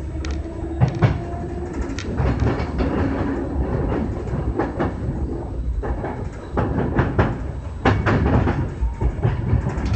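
Kintetsu 6020-series electric train running and gathering speed, heard from the front of the car: a steady rumble with wheels clicking and clacking over rail joints and switches. A faint hum rises slightly in pitch near the start.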